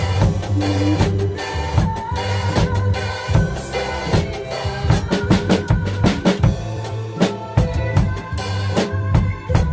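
Drum kit played with bass drum and snare, in time with a recorded instrumental backing track of the song.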